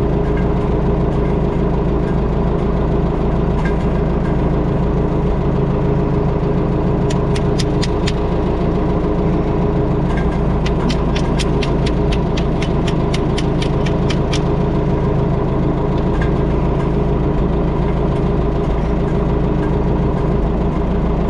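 An engine runs steadily at a constant speed. Partway through come two runs of sharp clicks, about four a second.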